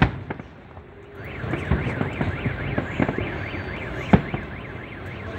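Aerial fireworks shells bursting, a loud bang at the start and another about four seconds in, with smaller cracks between. From about a second in, a car alarm warbles rapidly up and down, about four times a second.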